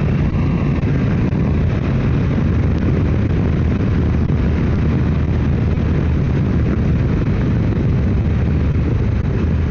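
Motorcycle riding at a steady cruise: the engine runs evenly under a constant rush of road and wind noise.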